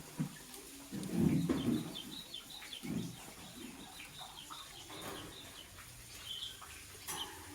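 Lovebird giving short, repeated high chirps. A louder low rustle and thump comes about one to two seconds in, with a smaller one near three seconds.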